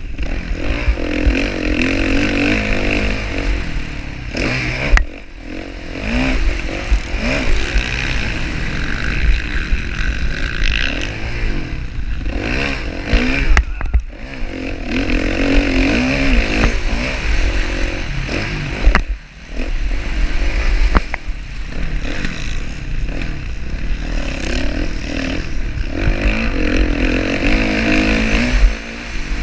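Motocross bike engines revving up and falling back over and over as riders work the throttle around the track, with brief dips in level.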